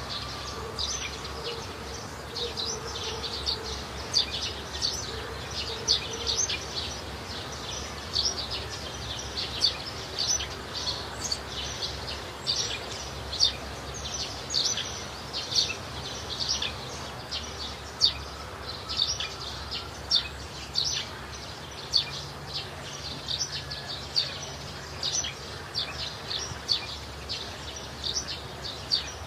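Wild outdoor ambience of birds chirping: many short, high chirps at irregular intervals, over a steady low rumble of background noise.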